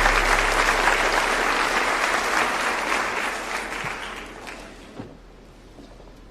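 Audience applauding, a dense patter of many hands clapping that dies away over about four seconds.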